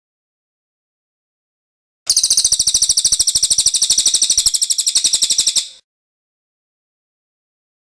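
Songbird singing one loud, harsh rattling trill of very fast notes, about ten a second, starting about two seconds in and lasting nearly four seconds.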